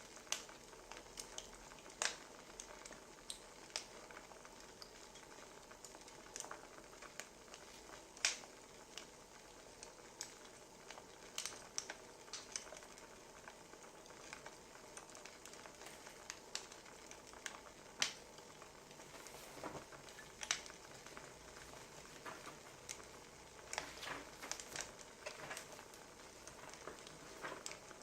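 Wood fire crackling: irregular sharp pops and snaps over a faint, steady hiss.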